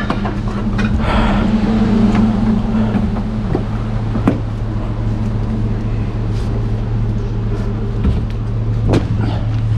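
A 2006 Chevy Silverado pickup's engine running steadily at low speed with a constant low hum, with a few light clicks and knocks over it.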